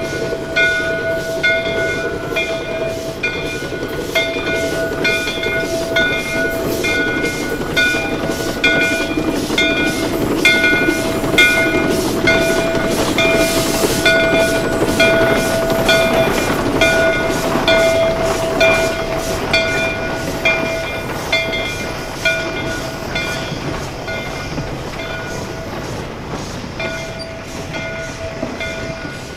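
J. Neils Lumber Co. #5, a Shay geared steam locomotive, working along with a rapid, even beat and a steady high ringing tone that pulses with the beat. It grows louder toward the middle and then fades as it moves away.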